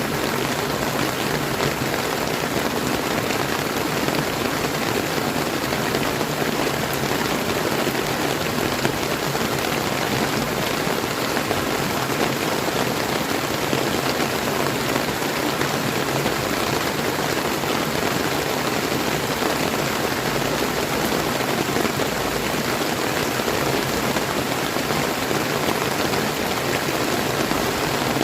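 Steady rain falling together with running river water: an even hiss that holds without breaks.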